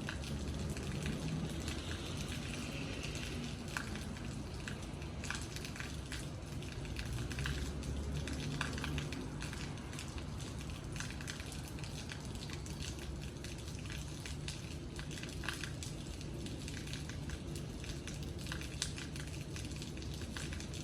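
Steady rain falling, with many separate drops tapping and crackling on a hard surface.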